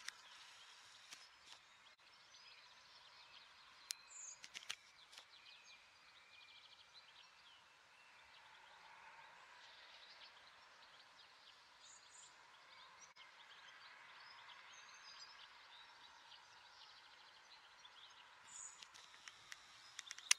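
Faint outdoor ambience with a few short bird chirps, the loudest about four to five seconds in and again near the end.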